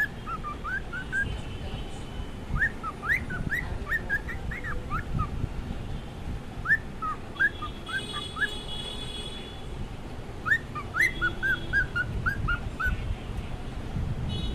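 Cockatiel whistling in bouts of short, quick, mostly rising notes, with pauses between bouts. A higher, harsher chirping call comes in about halfway and again at the very end.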